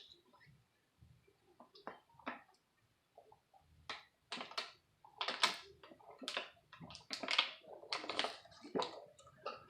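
Eating sounds of someone chewing creamy shrimp alfredo: a run of short, irregular mouth clicks and smacks that come thicker and faster in the second half.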